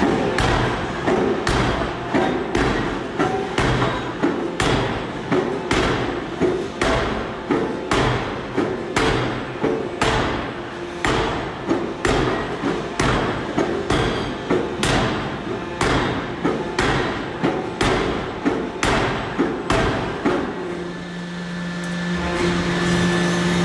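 Forging hammer striking metal in a steady rhythm, about three blows every two seconds. Near the end the blows stop and a steady hum takes over.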